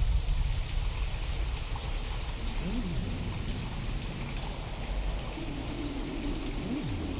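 Steady rain from a real storm recording with a low thunder rumble that is loudest at the start, sound-designed to seem alien. A few faint tones glide up and down about halfway through and again near the end, over a steady low tone that starts after about five seconds.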